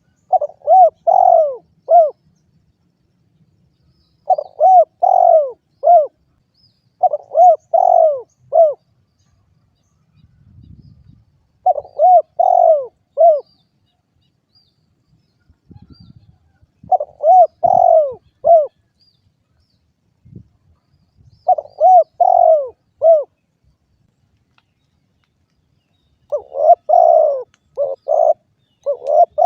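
Spotted dove cooing: short phrases of three to five rising-and-falling coos, repeated about every four to five seconds, with a quicker, denser run of coos near the end.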